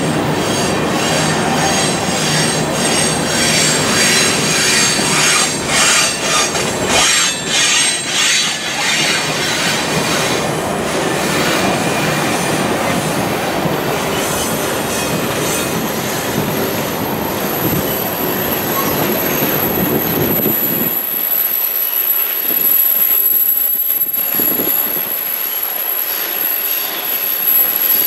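Freight cars (covered hoppers and tank cars) rolling slowly past at close range: steel wheels clattering over the rail joints, with a run of clicks in the first half. A steady high-pitched wheel squeal comes in during the later part.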